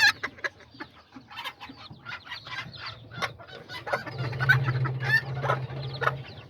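Kikiriki bantam chickens clucking, with a brood of chicks peeping, in a rapid run of short calls. A low, steady hum joins in for about two seconds in the second half.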